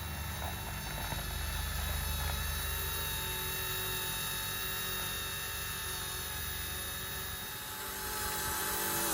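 Eachine E120 micro RC helicopter's electric motors and rotors whining steadily in flight, several pitches held together, with wind rumbling on the microphone.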